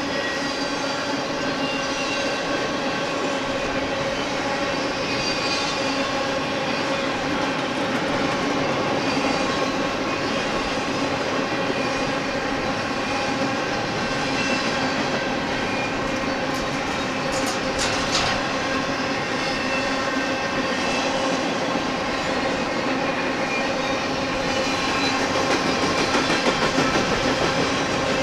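Freight train of empty intermodal well cars rolling past: a steady rumble and wheel-on-rail clatter, with several steady whining tones above it. There are a few sharp clicks about two-thirds of the way through, and it grows slightly louder near the end.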